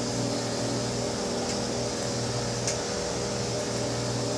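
Microwave oven running with a steady hum, with two faint ticks about a second and a half and two and a half seconds in.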